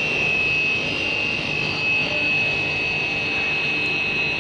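A machine running steadily: an even drone with a constant high whine that holds the same pitch throughout.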